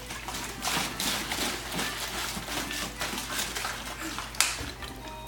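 Water sloshing and gurgling in uneven splashy bursts as it is swirled into a vortex, with one sharp tap about four seconds in.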